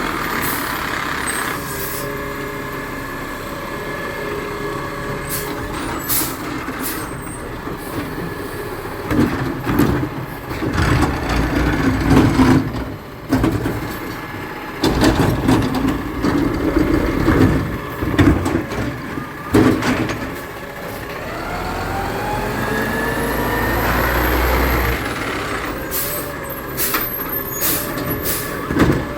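Garbage truck at work: its engine running steadily, with a stretch of irregular knocks and clatter in the middle, then the engine revving up in a rising pitch for a few seconds near the end.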